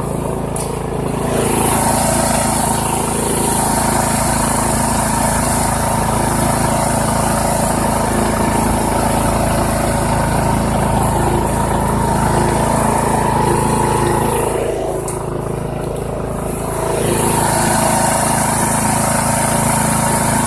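Poulan Pro PP175G42 riding lawn tractor's engine running steadily under load while towing a loaded steel cart in third gear. The sound eases off briefly about fifteen seconds in, then comes back up.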